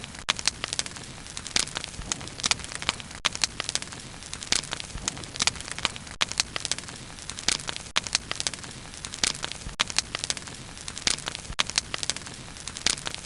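Bonfire crackling: irregular sharp pops and snaps, several a second, over a steady soft hiss of burning.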